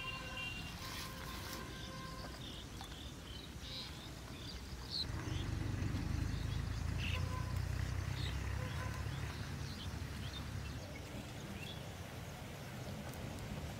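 Birds chirping here and there over a low rumble that swells about five seconds in and fades a few seconds before the end. A few held music tones die away in the first two seconds.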